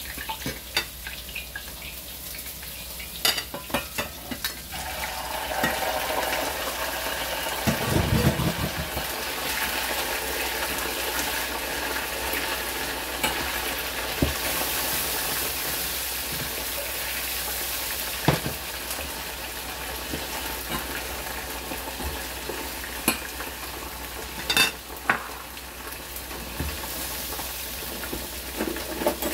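Pork ribs frying in hot oil in a saucepan for their second fry, sizzling steadily. The sizzle swells about five seconds in as the ribs go in. A metal spoon clinks and scrapes against the pan now and then as the ribs are stirred.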